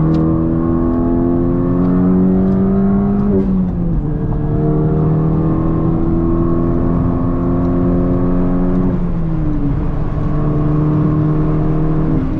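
Honda Civic Si engine pulling under hard acceleration, its pitch climbing steadily through each gear and dropping at upshifts about three seconds in, about nine seconds in and again near the end.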